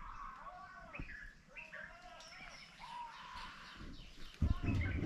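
Birds calling and chirping, many short rising and falling notes repeating throughout. A low rumble comes in near the end and is the loudest sound.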